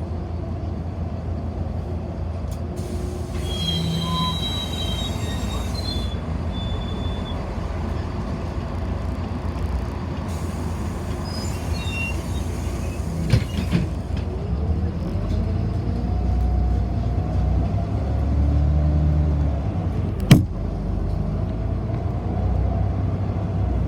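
A city bus driving, heard from inside the cabin: a steady low rumble of engine and road. Two spells of hissing come about 3 and 10 seconds in, there is a whine that rises and falls near the middle, and a single sharp knock sounds about 20 seconds in.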